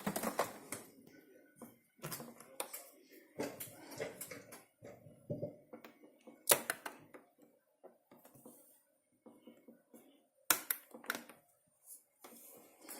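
Scattered clicks and knocks of a dishwasher being handled, with a few sharp, louder clacks among them.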